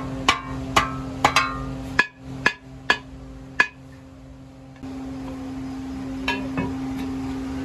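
Hammer blows on metal, each strike ringing briefly, in an irregular series of about ten, over a steady machine hum that drops out for a few seconds in the middle.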